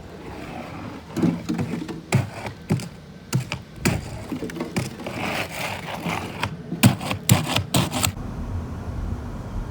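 Ice-crusted snow crunching and cracking in a series of irregular sharp crackles, stopping about eight seconds in.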